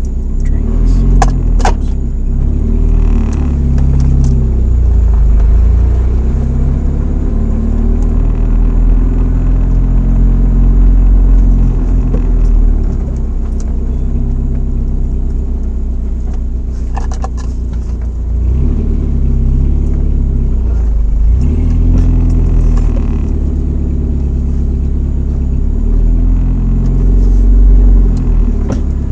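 Chevrolet S10's 2.2-litre four-cylinder running through a Flowmaster 40 dual exhaust, heard from inside the cab in city driving: a low drone that swells and eases with the throttle several times. A few sharp clicks from the cab interior cut through. The system has a slight leak near the stock exhaust manifold.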